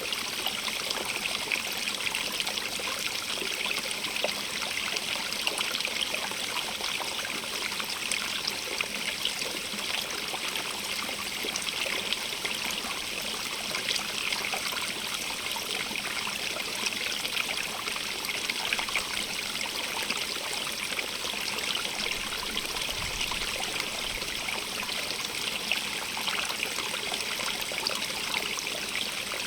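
Stream of running water trickling and splashing over stones, a steady close hiss with small crackling splashes.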